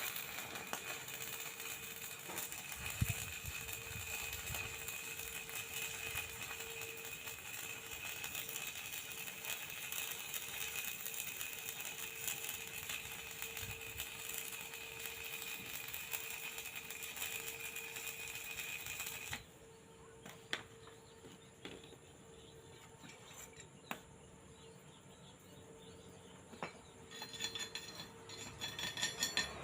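Stick (flux-coated electrode) arc welding: a steady arc crackle that stops abruptly about two-thirds of the way through. After that come a few sharp clicks, then light metallic clinking near the end.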